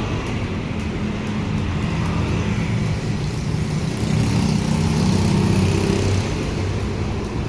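Yamaha Vixion's single-cylinder four-stroke engine running through a newly fitted stainless bent header pipe. It gets louder about four seconds in and eases back near the end.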